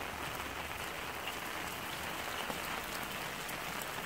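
Steady rain falling on a gravel yard and wet concrete driveway, an even hiss with the odd single drop ticking out of it.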